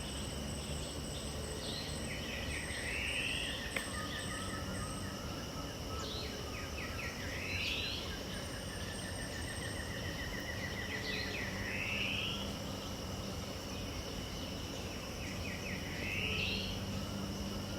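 Pantanal dawn ambience: a bird repeats the same short phrase about every four seconds, a quick run of notes ending in a rising slur, over steady high insect trilling.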